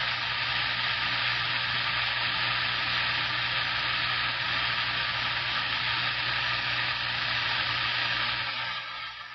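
CB radio receiver static: a steady loud hiss of band noise from the speaker, with a faint low hum under it. It fades down shortly before the end.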